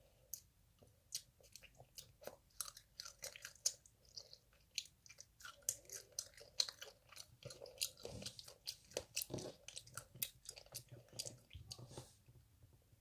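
Tangerine tanghulu being bitten and chewed: the hard candied-sugar shell cracks between the teeth in an irregular run of many sharp crunches.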